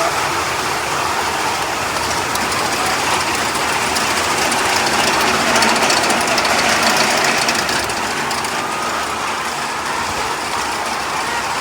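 Flock of Cobb hens eating pre-laying feed: a dense, steady din of pecking and rustling at the feed, with a few short rising calls heard above it.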